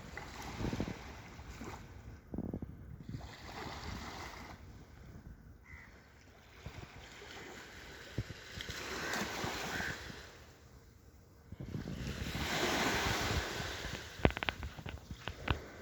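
Rushing wind-and-water noise that swells and fades in slow surges, with a run of sharp clicks near the end.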